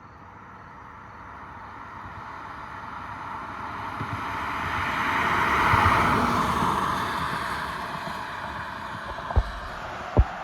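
A vehicle driving past on the highway: tyre and road noise that swells to a peak about halfway through, then fades away. Two short knocks sound near the end.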